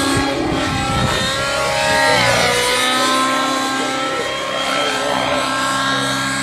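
Nitro-engined Synergy N9 RC helicopter flying, its engine and rotor making a loud, high whine. The pitch dips about two seconds in, then holds steady.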